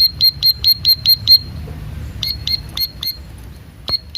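Ciblek sawah, a small prinia, calling a rapid run of sharp, high 'tiit' notes, about four a second. It breaks off briefly after about a second and a half, then starts again. A single sharp click comes near the end.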